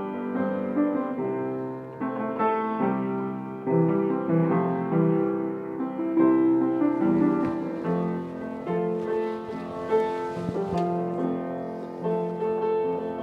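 Grand piano playing itself under its built-in PianoDisc player system, a continuous stream of notes and chords with the keys and hammers driven by the player unit.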